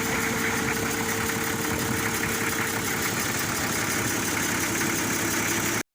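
Engine idling steadily, running again after its faulty starter motor was replaced.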